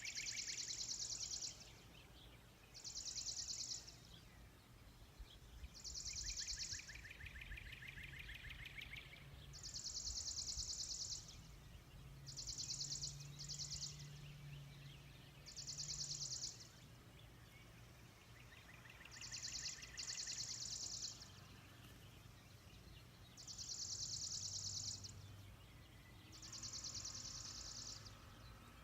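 A bird repeating a high, buzzy trill about a second long every few seconds. A second, lower trill joins in a couple of times.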